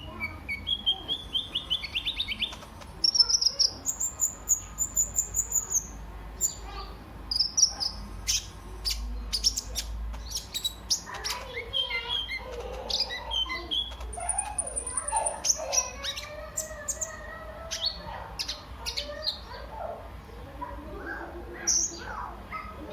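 Kolibri ninja sunbird singing: bursts of high, rapid chirps and fast trills. About halfway through, a lower, warbling twitter joins in.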